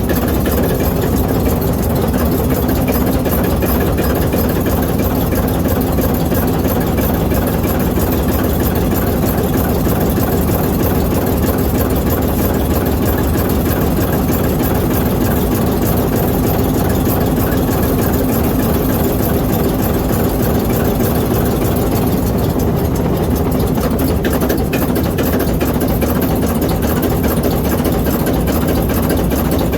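ALCO 539T turbocharged inline-six diesel prime mover of an ALCO S4 switcher locomotive, running steadily.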